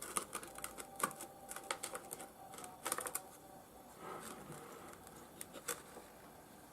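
Scattered light clicks and taps of small rough opal pieces being handled and moved about, with a quick cluster of clicks about three seconds in.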